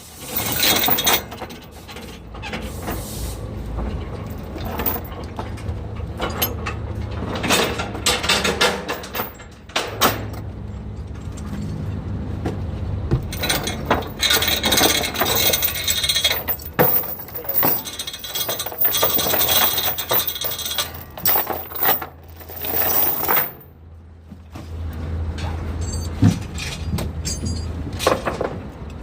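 Vehicle running on the road with a steady low hum, overlaid by frequent clinks and rattles.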